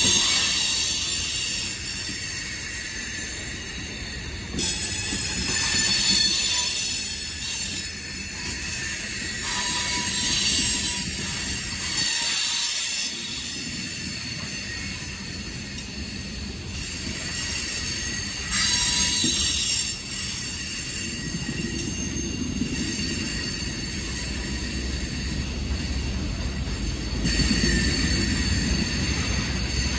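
Loaded coal train's cars rolling past: steel wheels rumbling steadily on the rail, with high wheel squeal rising and fading in stretches every few seconds.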